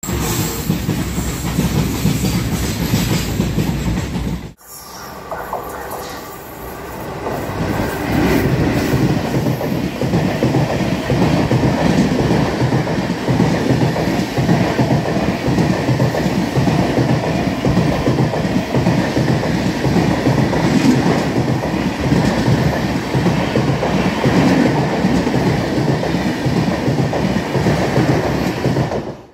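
Passenger express train passing close by at speed: a steady rush of coaches with the wheels clattering over rail joints. The sound drops out abruptly about four and a half seconds in and builds back up over the next few seconds.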